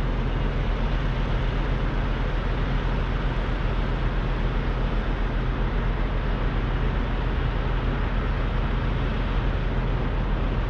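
Semi truck's diesel engine running steadily: a constant low hum under a broad, even rumble.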